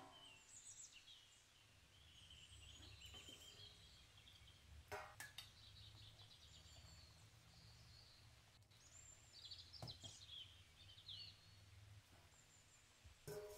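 Near silence: faint birds chirping in the background over a low hum, with a faint click about five seconds in and another about ten seconds in.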